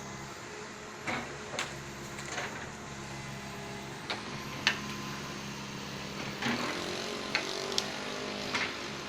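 Komatsu excavator's diesel engine running steadily, with a rise in pitch about six and a half seconds in, and several sharp knocks in between.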